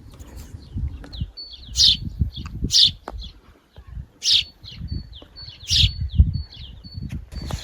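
Small songbirds chirping: a run of short, high, down-slurred notes with louder sharp calls about every second and a half.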